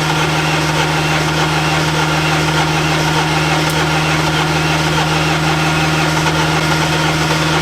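MINI R56 1.6 HDi DV6 diesel engine running steadily at idle, an even, unbroken engine note.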